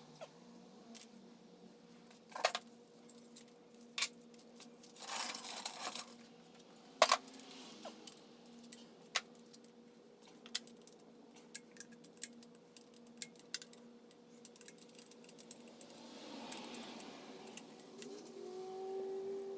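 Scattered sharp metal clinks and clatter of tools and engine parts being handled, with a couple of short scraping rustles and a brief squeak near the end.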